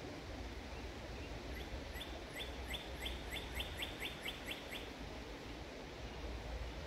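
A songbird calling a quick run of about a dozen short, repeated downslurred notes, starting about one and a half seconds in and lasting some three seconds, over a steady low background rumble.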